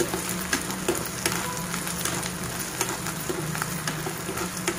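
Chopped onions and ginger-garlic paste sizzling in hot oil in a nonstick pan while a spatula stirs them. It is a steady sizzle with scattered small crackles and scrapes.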